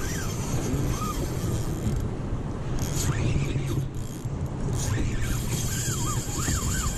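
Steady low rumble of road traffic on the bridge, with a few faint high chirps in the second half.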